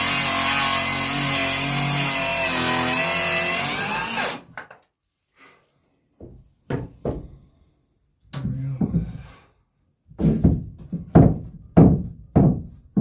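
Circular saw ripping a 2x4 lengthwise, running steadily and then stopping suddenly about four seconds in. A run of short, sharp knocks follows, about two a second near the end.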